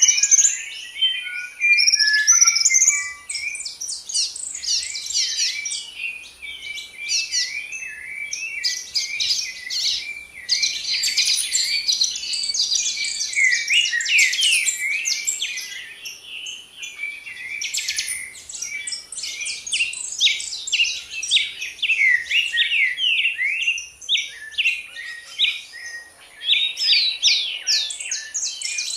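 Several songbirds singing and chirping together, a dense run of quick notes sliding up and down in pitch.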